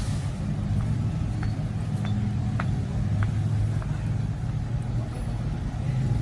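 Street traffic with a steady low engine rumble from vehicles close by, and a few faint clicks.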